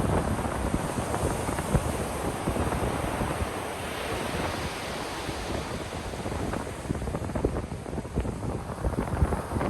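Ocean waves breaking and washing up on a beach, with a steady low rumble of surf and the crackling hiss of foam, and wind buffeting the microphone.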